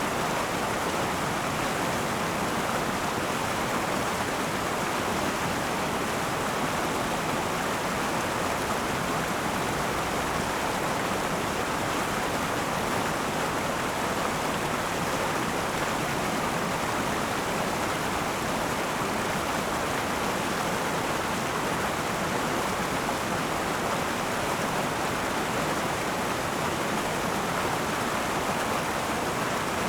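Akan River flowing, a steady even rush of running water with no let-up.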